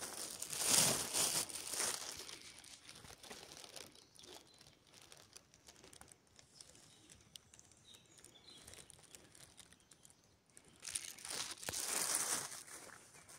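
Close rustling and crinkling in two bursts, one near the start and another about eleven seconds in, with fainter rustling between them.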